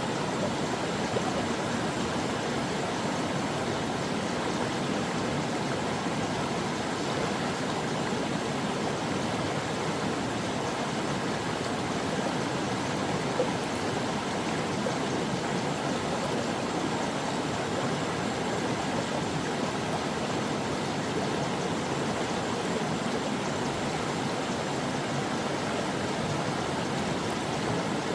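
A brook flowing steadily: an even, unbroken rush of running water.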